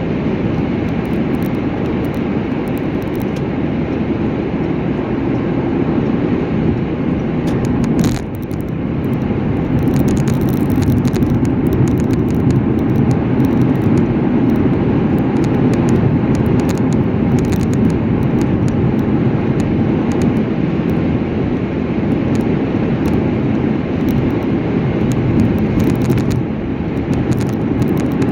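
Steady road noise of a car driving at speed, tyres and engine running evenly, with a brief knock about eight seconds in and scattered faint ticks.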